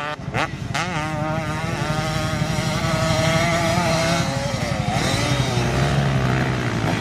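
Dirt bike engine running, its pitch wavering up and down with the throttle, then revving sharply at the very end.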